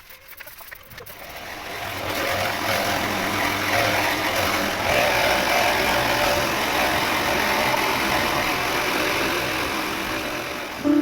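An engine running steadily, building up over the first two seconds.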